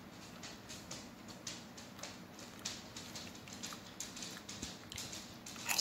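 Close-up chewing and crunching of potato chips: a run of faint, irregular crisp crunches, with a slightly louder crackle near the end.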